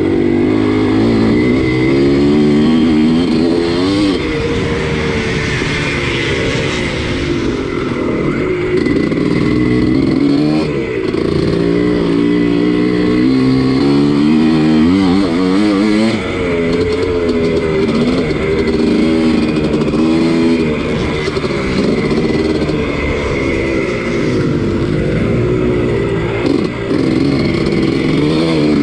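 Two-stroke single-cylinder engine of a 1983 Husqvarna 250CR dirt bike racing on a motocross track, revving up and dropping off again and again as the rider shifts and throttles through the course.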